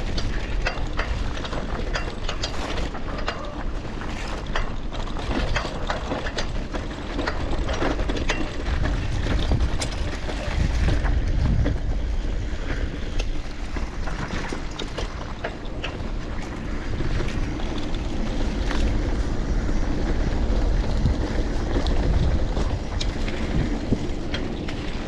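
Bicycle ride: wind buffeting the microphone over a steady rumble of tyres rolling on the road, with frequent small clicks and rattles from the bike.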